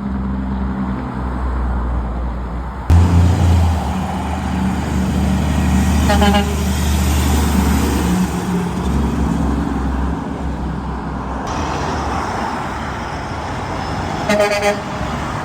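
Trucks and other road vehicles driving past in city traffic, their engines running low and loud. A short horn toot sounds about six seconds in and another near the end.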